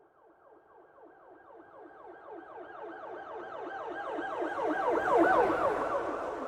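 Police siren sounding a rapid yelp, its pitch sweeping up and down several times a second. It grows from faint to loud, peaks about five seconds in, then starts to fade.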